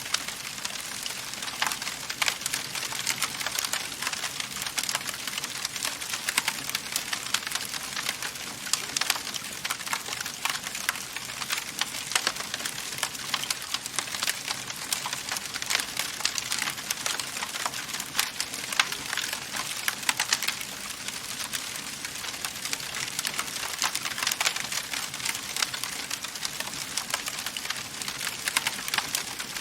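Wood fire crackling steadily in a fireplace, with dense, irregular sharp pops and snaps over a soft hiss.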